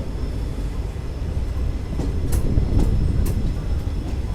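Passenger train coaches rolling on the rails with a steady low rumble, and three wheel clicks over rail joints about half a second apart a little after two seconds in.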